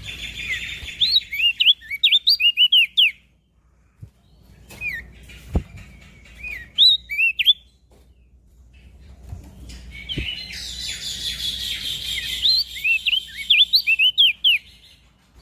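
Crested white-eye (opior jambul) singing in three bursts of rapid, sharp chirping notes, each burst a quick run of arched whistles with a chattery undertone, with short pauses between. Two soft knocks fall in the middle pause.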